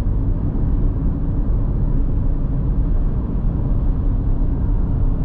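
Steady road noise inside a moving car's cabin: a low rumble of engine and tyres at cruising speed.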